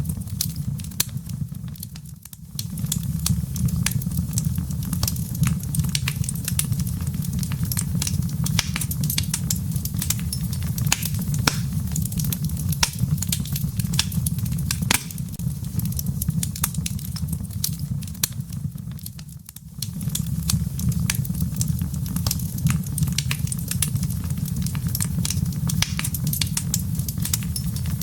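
Wood fire in a fireplace crackling: many small sharp pops and snaps from the burning embers over a steady low rumble of the flames. The fire sound drops away briefly twice, about two seconds in and again about two-thirds of the way through.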